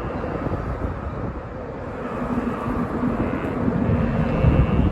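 A low outdoor rumble with a faint steady hum, growing louder toward the end.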